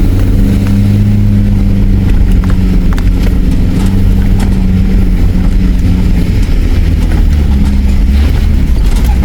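Nissan Patrol 4WD engine running steadily under load as it climbs a steep river-crossing exit, with a few light knocks over the engine hum.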